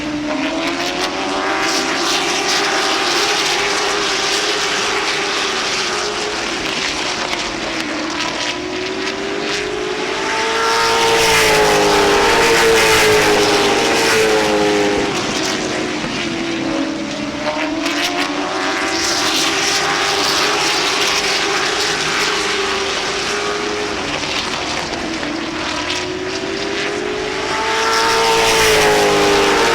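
A field of late model stock cars' V8 engines running at speed around a short oval; the engine note rises and falls in pitch every eight or nine seconds as they lap, loudest as the pack passes by.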